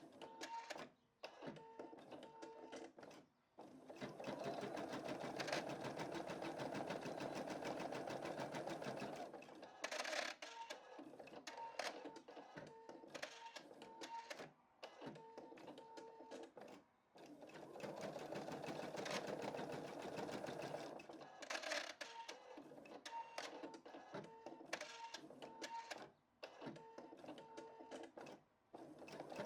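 Home embroidery machine stitching a design, its needle running in a fast, even patter. It goes in steady stretches, broken by about half a dozen short stops.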